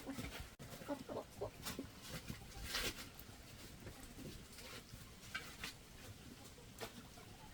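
Chickens clucking, a few short calls in the first second and a half, with scattered light clicks and a brief rustle about three seconds in.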